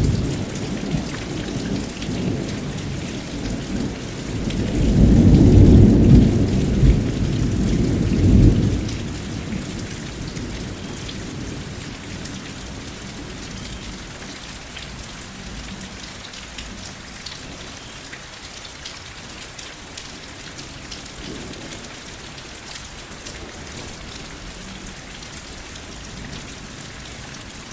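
Steady rain with rolling thunder. A loud low rumble swells about five seconds in, lasts a few seconds and dies away, leaving the even hiss of rain falling alone.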